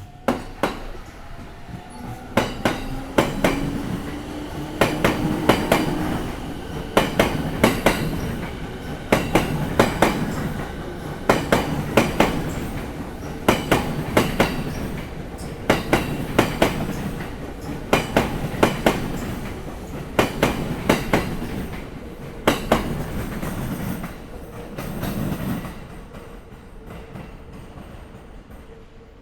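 Electric commuter train running over a rail joint, its wheels striking the joint in loud groups of clicks about every two seconds as each car's bogies cross. A slightly rising motor whine is heard in the first few seconds, and the clatter dies away near the end as the last car clears.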